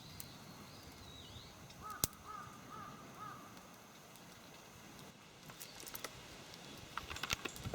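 Wild bird calling outdoors: a quick series of about five short arching calls, with fainter high chirps at the start, over a faint steady background hiss and scattered sharp clicks.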